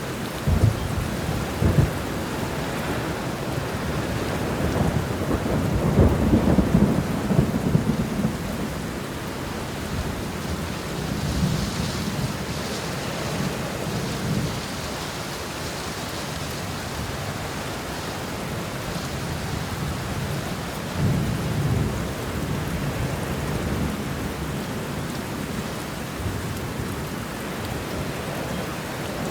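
Steady rain falling through a thunderstorm, with rolling thunder: two sharp claps near the start, a long, louder rumble a few seconds later, and another rumble about two-thirds of the way through.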